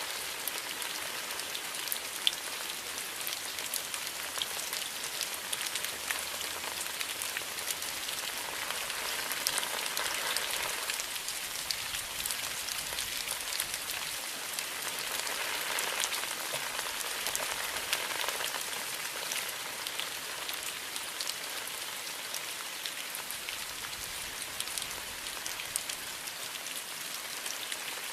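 Steady rain falling in a bamboo grove, an even hiss with many sharp individual drop ticks, swelling slightly twice.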